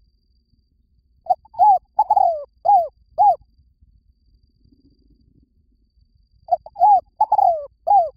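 Spotted dove cooing: two phrases of short, arched coos, each phrase a quick run of four or five notes, the second starting about six and a half seconds in.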